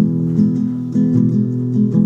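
Acoustic guitar playing an instrumental intro: plucked chords struck about twice a second, each ringing on.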